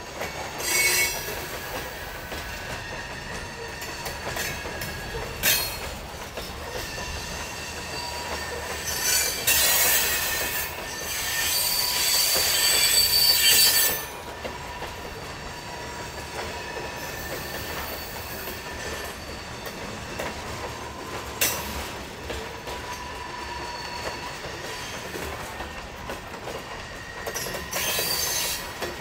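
Heavy train rolling past on century-old track, the cars running steadily with a faint held tone. Sharp high-pitched wheel squeals and track creaks break in several times, the longest and loudest from about nine to fourteen seconds in.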